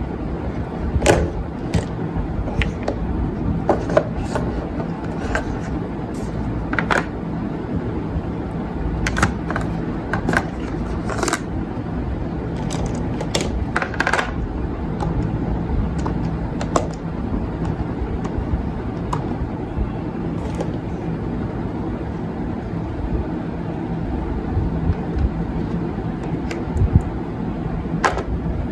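Scattered sharp clicks and taps of small makeup items being handled and set into a makeup organizer, over a steady low rumble. The taps bunch together around the first fifteen seconds and come again near the end.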